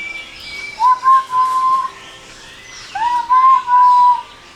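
A person whistling at birds to get their attention: two clear whistled notes, each about a second long, sliding up briefly and then held at one pitch.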